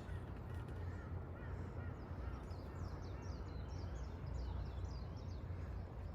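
Birds calling outdoors: a busy run of short, quick high chirps and a repeated arching call, over a steady low rumble.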